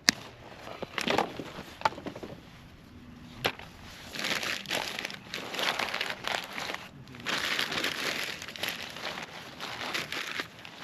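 Dry sticks and brushwood snapping with a few sharp cracks, then long stretches of dense crunching and crackling as the dry wood is broken and handled.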